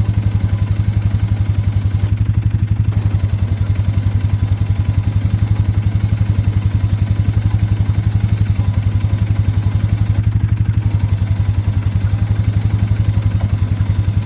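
Small vehicle engine idling steadily with an even, rapid putter.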